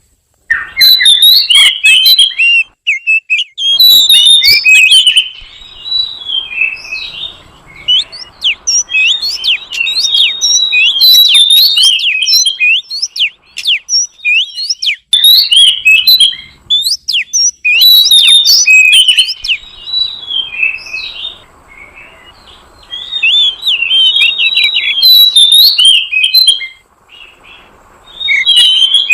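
Oriental magpie-robin (kacer) song: a fast, varied stream of loud whistles and chirps in phrases broken by short pauses, played as a lure call for wild magpie-robins.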